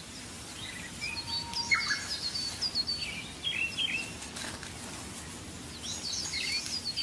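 Several birds chirping in the wild, with quick runs of short, high chirps about a second in and again near the end, and some lower calls between, over a steady outdoor hiss.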